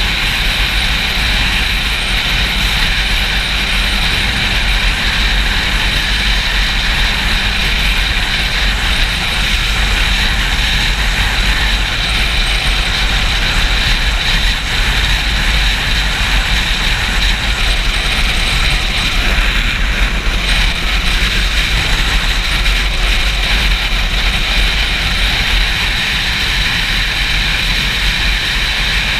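Wind rushing and buffeting over an action camera's microphone at riding speed on a Yamaha YZF-R6 sport bike, a loud, steady rumble with the motorcycle running underneath it.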